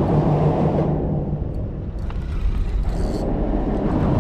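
Steady low rumble of road traffic passing on the bridge overhead.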